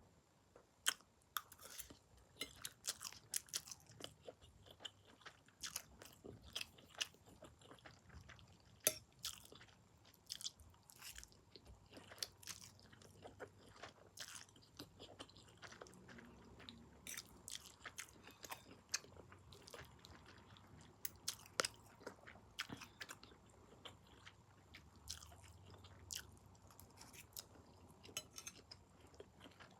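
Mouth sounds of a person eating noodles: chewing with many irregular, sharp, wet clicks.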